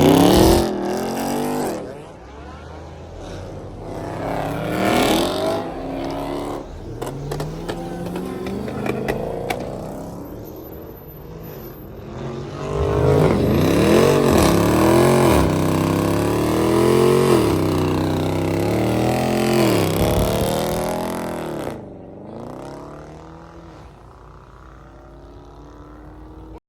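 Car engine being revved: a rev at the start and another about five seconds in, then a run of about five quick rev blips in the middle, after which the engine settles lower and fades.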